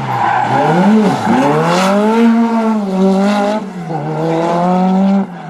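Rally car engine through a tight hairpin: the revs fall sharply as it slows into the bend, then climb as it accelerates out, with a drop in pitch about three and a half seconds in at a gear change before it pulls hard again.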